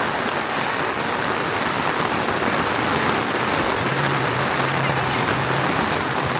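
Heavy rain falling steadily, a dense, even hiss of drops. A faint low hum joins in about four seconds in.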